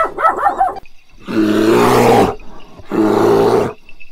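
Animal calls: a few short pitched calls at the start, then two loud drawn-out calls about a second long each, the second following about half a second after the first.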